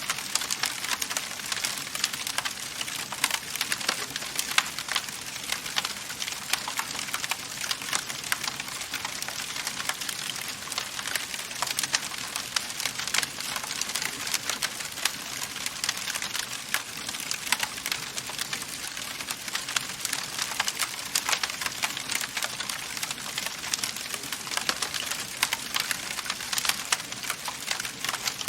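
Wood fire crackling in a fireplace: many small, irregular pops and snaps over a steady hiss.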